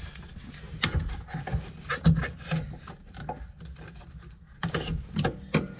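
Hands working at a wiring connector and seat parts under a tractor seat: irregular clicks, knocks and rubbing, busiest near the end.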